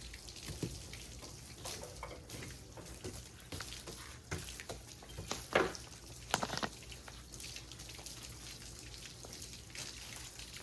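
Water from a garden hose spattering and dripping on a truck, faint, with a couple of short knocks about halfway through.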